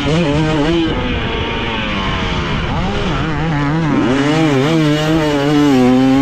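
Dirt bike engine revving up and down as the throttle is opened and closed while riding, its pitch rising and falling several times.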